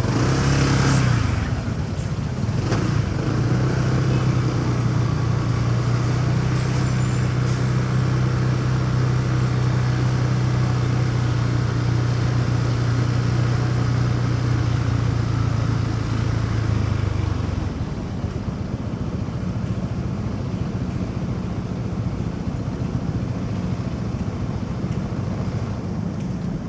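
Motorcycle engine picking up speed and then running at a steady pitch, easing off about two-thirds of the way through, with road and wind noise underneath.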